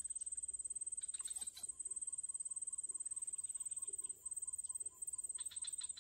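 A bird calling a steady series of short notes on one pitch, about four a second, over a constant high-pitched insect trill, with a few light clicks near the end.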